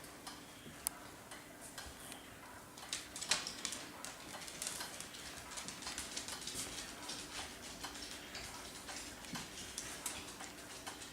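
Faint, irregular small clicks and taps, several a second, growing denser about three seconds in.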